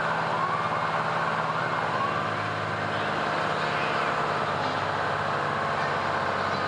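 Fire truck engine running steadily, with faint siren wails rising and falling in the first couple of seconds.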